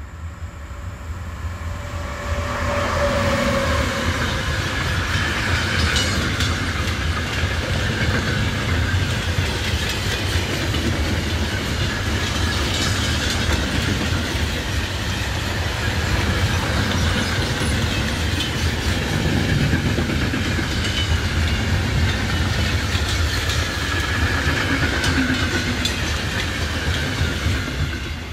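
A locomotive-hauled freight train passing at speed on the near track. It is a loud, steady rolling rumble of wagon wheels on rail with repeated clicking over the rail joints. It builds about two seconds in and fades off near the end.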